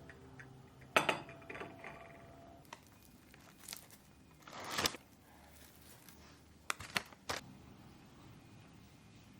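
Household objects being handled: a sharp clink about a second in that rings briefly, a short rustle near the middle, and three quick knocks later on.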